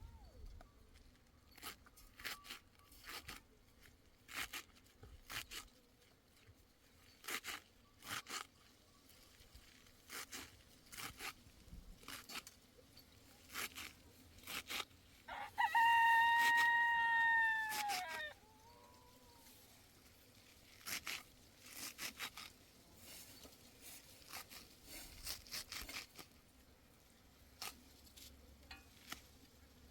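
A rooster crows once, a long call about halfway through that drops in pitch at the end, the loudest sound here. Scattered clicks and knocks come and go around it.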